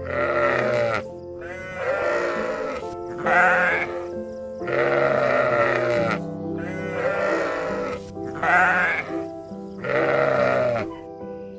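Sheep bleating repeatedly, about seven wavering calls, over background music.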